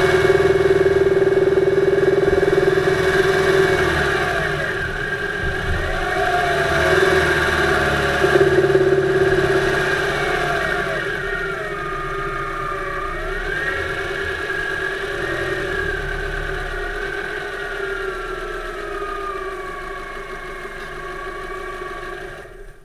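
2008 Subaru Impreza 2.5i's 2.5-litre flat-four engine running, heard from inside the engine bay, its pitch rising and falling as the engine speed changes. The sound gets gradually quieter and then cuts off suddenly at the very end.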